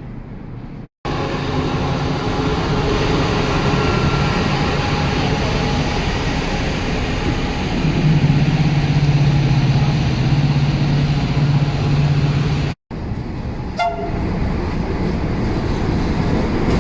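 Railway train noise: a loud rumble with a steady low drone, strongest in the middle, then a short pitched toot, typical of a train horn, a little before the end.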